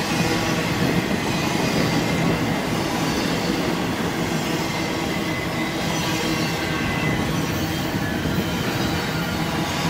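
Double-stack intermodal freight train rolling past: a steady rumble and clatter of the well cars' wheels on the rails, with faint high wheel squeal running under it.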